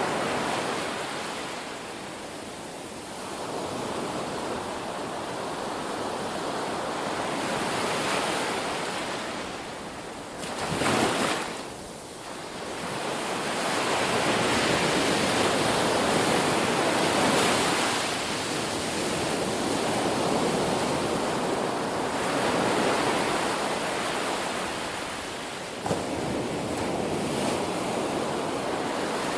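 Ocean surf: waves breaking and washing up on shore, the rush swelling and ebbing every few seconds, with a brief sharper surge about eleven seconds in.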